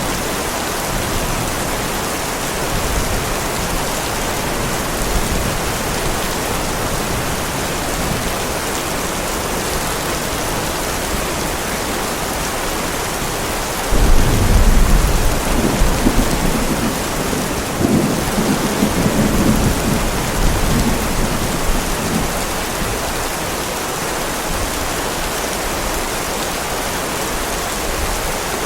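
Heavy steady rain, with a roll of thunder that breaks in suddenly about halfway through and rumbles on in surges for several seconds before fading back under the rain.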